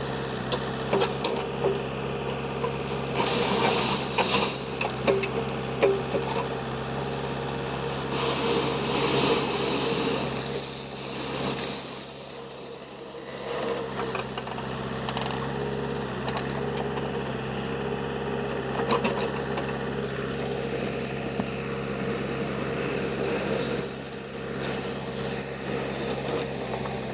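JCB 3DX backhoe loader's diesel engine running steadily, with bursts of scraping and rattling as gravel is scooped and dumped, a few seconds in, around the middle, and near the end.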